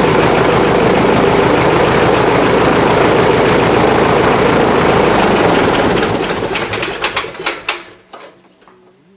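Piper Super Cub's aircraft piston engine running steadily, then shut down about six seconds in: its firing breaks into a few slowing separate chuffs as the propeller coasts to a stop. A faint steady hum is left after it stops.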